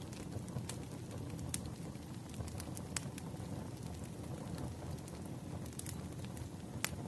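Wood fire burning, with irregular sharp crackles and pops over a low steady rumble of flame.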